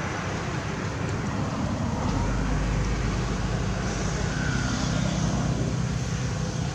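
Steady low rumble of road traffic, growing a little louder about two seconds in.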